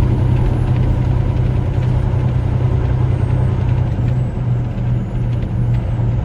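Semi truck's diesel engine running under way, heard from inside the cab as a steady low drone, with a few faint ticks in the second half.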